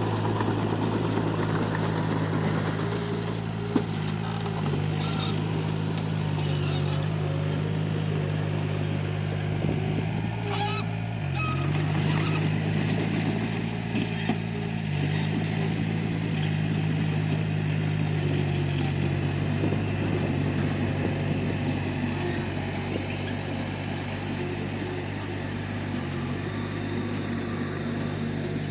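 Komatsu D31P bulldozer's diesel engine running steadily under load, its note dipping briefly a few times as it lugs and recovers, with a couple of short sharp knocks.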